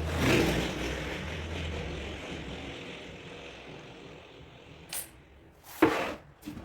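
Joinery workshop sounds: a whirring noise with a low hum that dies away over the first three seconds, then a short click and a louder sharp knock about six seconds in.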